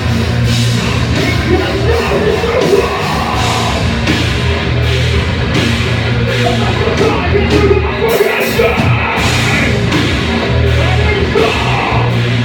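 Rock band playing a song live, loud and dense with heavy bass; the bass briefly drops out about eight seconds in.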